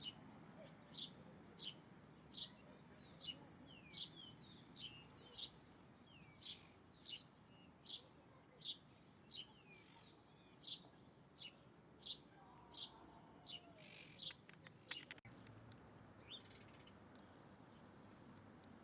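A songbird repeating one short, high call about every three-quarters of a second, with fainter chirps of other birds between. The calls stop abruptly about fifteen seconds in.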